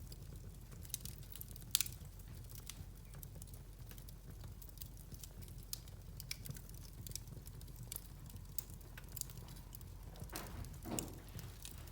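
Wood fire crackling, with irregular sharp pops scattered throughout over a low steady hum, and a brief louder burst of crackle near the end.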